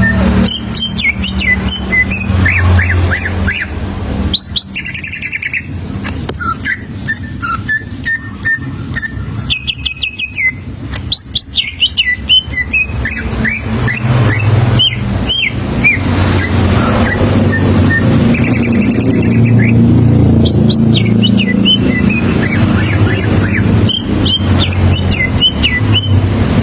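Greater green leafbird (cucak ijo) singing: a fast, varied run of chirps, whistles and quick rising and falling notes. Underneath is a steady low rumble that grows louder in the second half.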